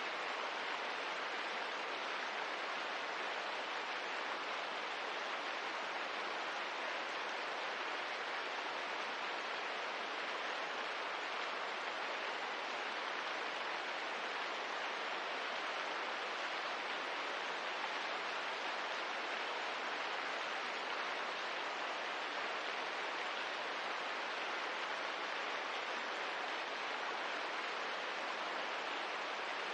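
Steady rain ambience: an even, unchanging hiss of falling rain, with no single drops, knocks or crackles standing out.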